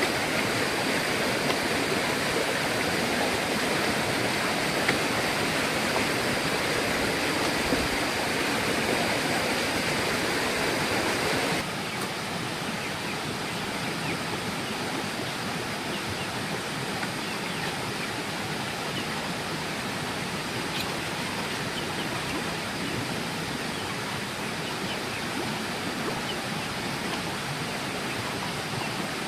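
Steady rushing noise that drops abruptly to a lower level about twelve seconds in.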